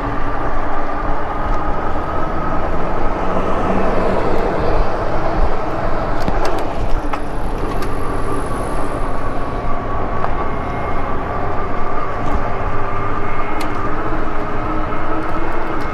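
Riding an electric bike: steady wind and road noise, with a steady whine from the bike's hub motor running underneath.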